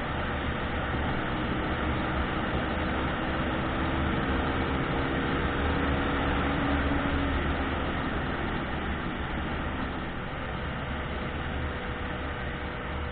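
Car on the move: steady road, tyre and engine noise with a low hum. A faint engine tone fades out a little past halfway, and the noise eases slightly near the end.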